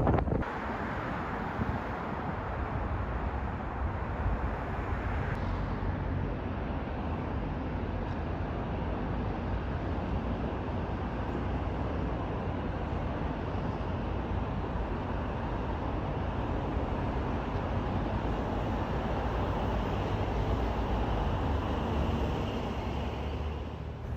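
Steady outdoor ambient noise, like the hum of distant road traffic, with no clear single event; the sound changes slightly about five seconds in.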